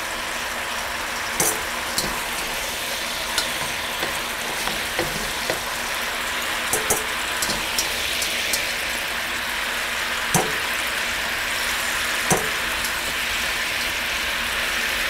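Chicken juices and oil sizzling steadily in a hot wok over medium-high heat. Occasional sharp clicks and taps come from a wire spider strainer and a wooden spatula knocking against the wok as the chicken is lifted out.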